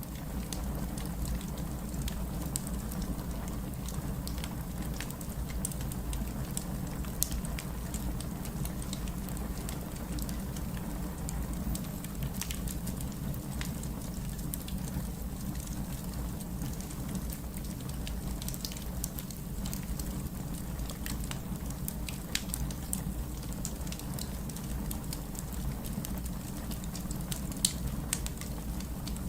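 Wood fire burning in a fireplace: a steady low rumble of flames with scattered sharp crackles and a few louder pops.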